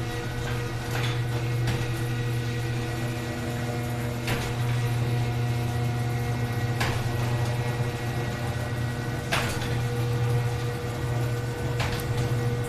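Sears Craftsman garage door opener running as it raises a 9-foot-high overhead door: a steady motor hum with a sharp click about every two and a half seconds, then stops.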